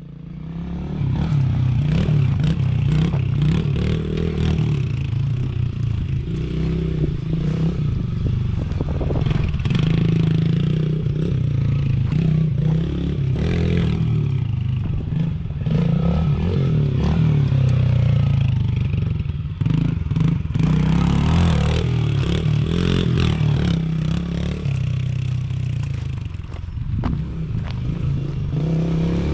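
110cc single-cylinder four-stroke pit bike engine running under riding load, its pitch rising and falling repeatedly as the throttle is opened and rolled off.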